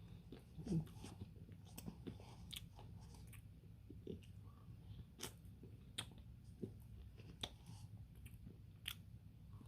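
A person chewing and eating a Dairy Queen Blizzard close to the microphone: faint, irregular wet mouth clicks and smacks.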